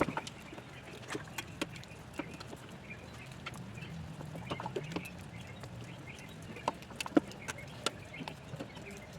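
Scattered, irregular clicks and knocks, some with a short metallic ring, over a steady low hum.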